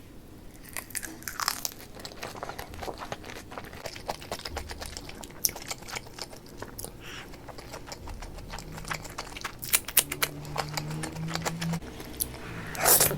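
Close-miked chewing and biting of food, with many small sharp crunching clicks and a louder rustling burst near the end.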